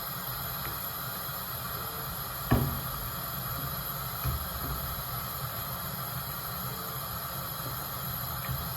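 Steady hiss with a low hum underneath, broken by one sharp knock about two and a half seconds in and a lighter knock a couple of seconds later.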